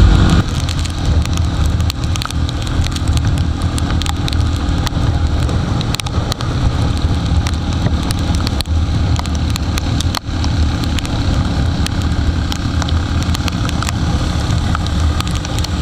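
Jawa motorcycle being ridden in heavy rain: the engine's steady low drone under a wash of wind and rain noise, with many sharp clicks of raindrops striking the microphone.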